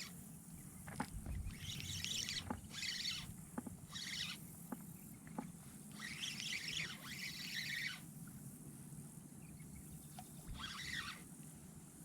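Irregular short bursts of splashing water around a kayak, with a few light knocks.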